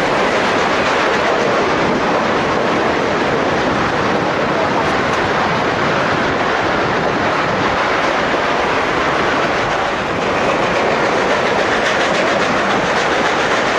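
Narrow-gauge train running along the track: a steady, loud rumble and rattle of the cars and wheels on the rails.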